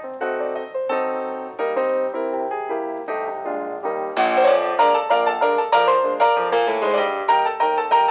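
Background piano music: a melody over chords, with the notes coming thicker and faster from about four seconds in.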